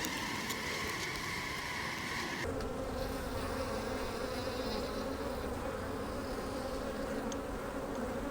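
Honey bees buzzing steadily around an opened hive. About two and a half seconds in, the hum changes abruptly and becomes lower.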